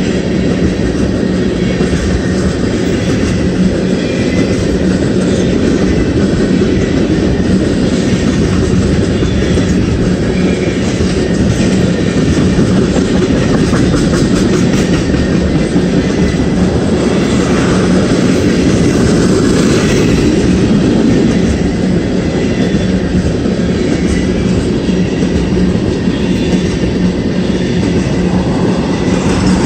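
Ethanol tank cars of a freight train rolling steadily past: continuous rumble and clatter of steel wheels on the rails.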